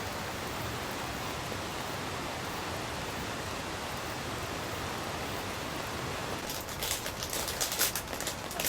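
Steady hiss of heavy rain and wind. In the last two seconds a flurry of sharp crackling taps rises above it.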